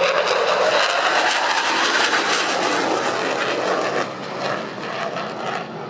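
Dassault Rafale C fighter jet, with its two Snecma M88 turbofans, flying past with a loud rush of jet noise that eases off about four seconds in.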